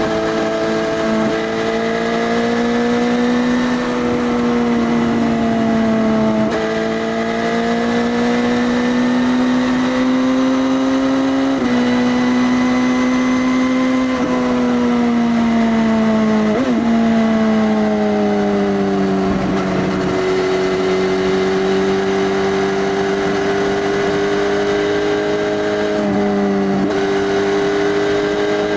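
2018 Suzuki GSX-S1000's inline-four engine, breathing through an Arrow Race Tech full exhaust system with the dB killer removed, running at fairly steady revs. Its pitch drifts slowly up and down, with a quick blip and drop about two-thirds of the way through.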